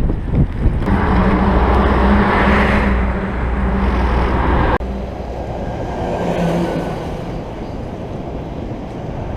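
Wind noise on the microphone while cycling along a road, with a motor vehicle's engine running close by for the first few seconds. The sound drops abruptly about halfway through to a quieter rush of wind and traffic.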